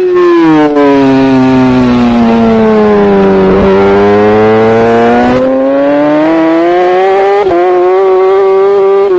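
Racing superbike engine at high revs. Its pitch falls steadily as the rider rolls off the throttle, bottoms out a little past the middle, then climbs again under acceleration, with short breaks at the gearshifts.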